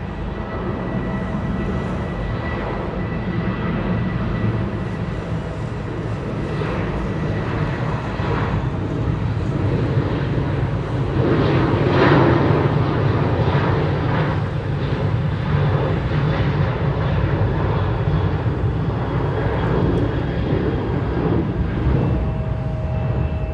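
Jet airliner engines passing by: a steady low rumble with a thin whine on top, growing to its loudest about halfway through and staying loud after that.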